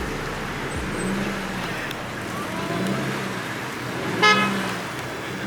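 A single short car horn toot about four seconds in, over the steady rumble of car traffic.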